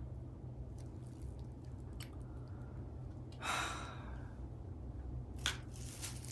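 A person's single breathy sigh, with a few sharp small clicks of handling before and after it, over a steady low hum.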